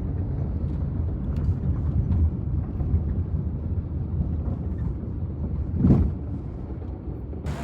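Steady low rumble of a car driving, heard from inside the car, with one short thump about six seconds in.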